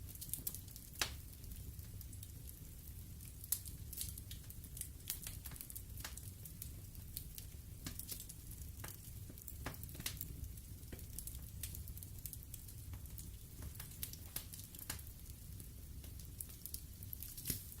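Wood fire burning in a fireplace: irregular crackles and sharp pops of burning logs over a soft low rumble of the flames, with a few louder snaps, one about a second in and another near the end.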